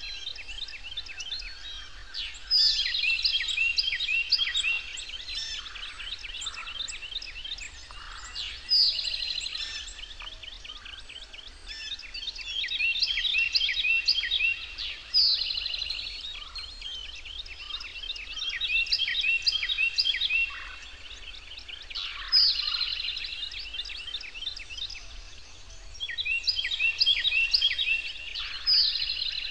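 A bird singing: phrases of rapid, high chirps, each opening loud and running on for a second or two, repeated every few seconds.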